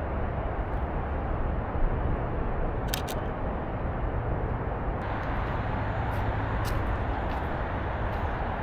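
Steady low outdoor rumble with no clear pitch, with a quick pair of sharp clicks about three seconds in and a few fainter ticks later.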